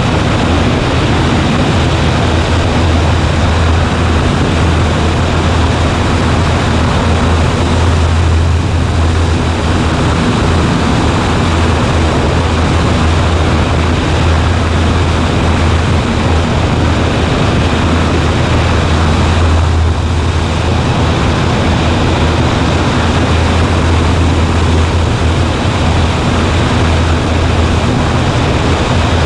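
Cessna 140A's piston engine and propeller droning steadily in flight, heard from inside the cockpit as a loud, constant low hum under rushing noise.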